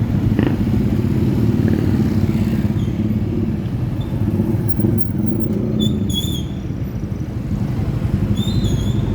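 Motorcycle engine running steadily under way, a constant low rumble. Short high chirps come through twice, near the middle and near the end.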